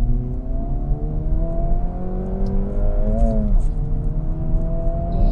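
2024 Acura Integra Type S's turbocharged four-cylinder accelerating in Sport Plus mode, with the exhaust opened up, heard from inside the cabin. The revs climb steadily, drop briefly at a gear change about three seconds in, then climb again.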